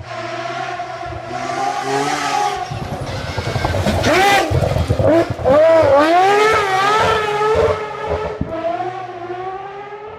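Mazda rotary (Wankel) engine running at a steady idle, then revved hard several times with the pitch rising and falling sharply before it drops back to idle.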